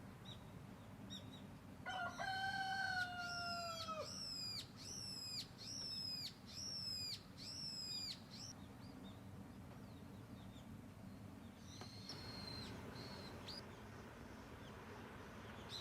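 A rooster crowing once, a long call about two seconds in. It is followed by a bird calling six or seven times in an even series of high, sharp chirps, then a few faint scattered chirps.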